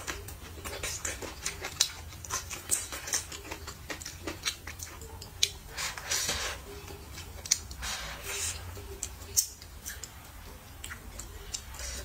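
Close-miked chewing and lip-smacking, a steady run of sharp wet clicks, with a couple of longer sucking sounds about six and eight seconds in.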